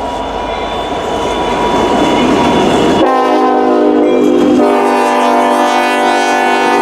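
CN local freight train passing, its locomotive air horn sounding a steady chord that comes in strong about three seconds in, over the rumble of the train.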